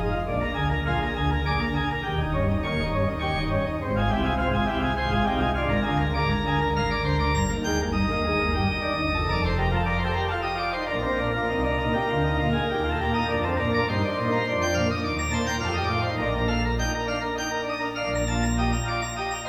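Organ music playing: sustained chords over a strong bass line, with the notes changing every second or so.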